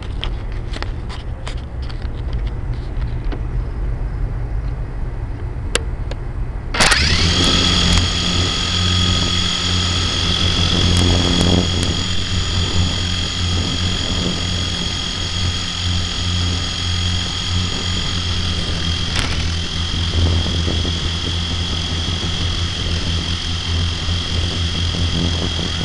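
Radio-controlled model helicopter's electric motor spinning up with a sharp rising whine about seven seconds in, then running at a steady high-pitched whine over a low hum. Before that, only a low rumble and a few light clicks.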